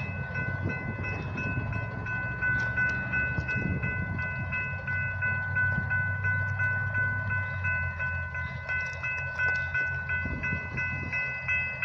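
Railroad crossing warning bell ringing with rapid, regular strikes while no train is coming: the crossing signal is stuck activated, which the onlooker guesses is an electrical fault in the signal box. A low hum runs underneath.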